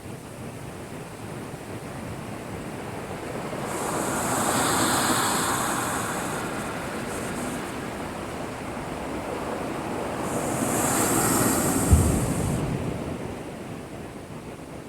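Heavy typhoon swell crashing against a breakwater. Two waves surge in and break with a hiss of spray, and the second lands with a sharp low boom near the end.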